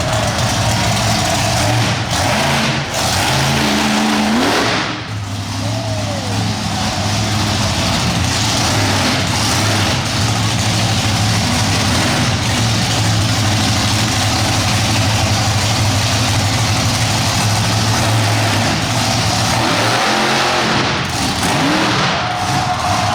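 Monster truck engine running hard and revving, loud throughout. It eases off briefly about five seconds in, and the revs rise and fall again near the end.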